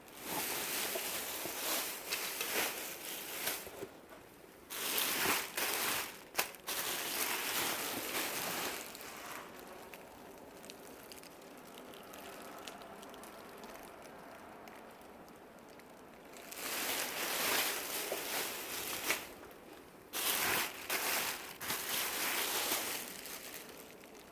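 Dresses being handled, rustling and crinkling in four stretches of a few seconds each, with quieter handling between them.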